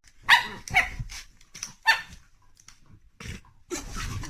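A dog barking: three short, sharp barks in the first two seconds, then a few fainter sounds near the end.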